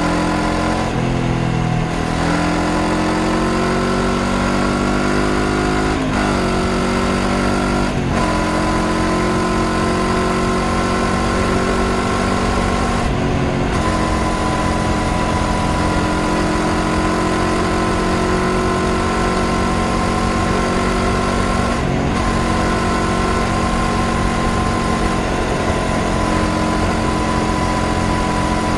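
Honda CBR500R's parallel-twin engine pulling up through the gears, its pitch climbing with brief breaks at each shift, then settling into a steady cruise with a couple more gear changes, over wind rumble.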